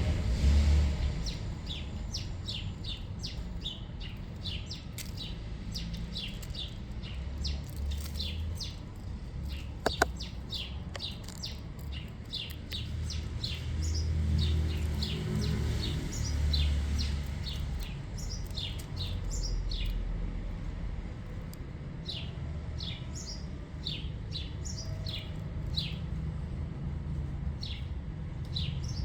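Small birds chirping over and over, short high downward-sliding chirps coming several at a time, over a steady low rumble. A single sharp click about ten seconds in.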